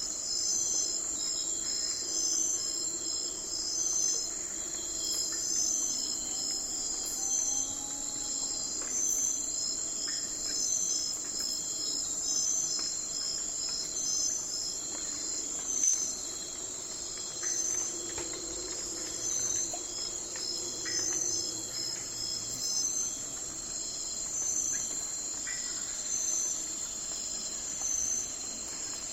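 Night-time forest insect chorus: a steady high trill, with a chirp pattern repeating about once a second over it. A single sharp click about halfway through.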